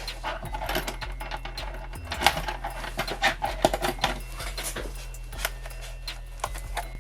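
Irregular small clicks and taps of hand tools and plastic and metal parts as a laptop is taken apart, over a steady low hum.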